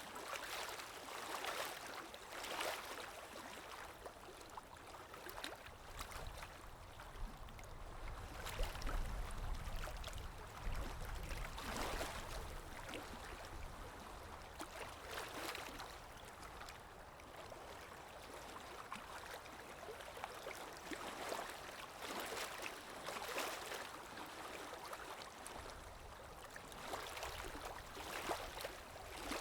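Underwater water ambience: a steady wash of water noise that swells and fades every second or two, with a deep rumble for a few seconds in the middle.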